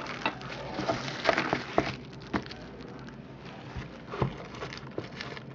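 Trading card box being handled and opened by hand: scattered light clicks, taps and rustling of the packaging.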